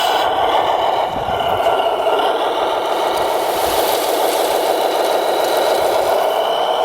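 Electric motors and gearboxes of radio-controlled construction vehicles running steadily, a high whine over a rattling, scraping mechanical noise.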